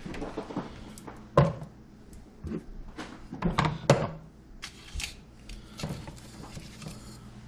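Kitchen handling sounds while cooking: a series of irregular knocks and thunks, a few with a short ring.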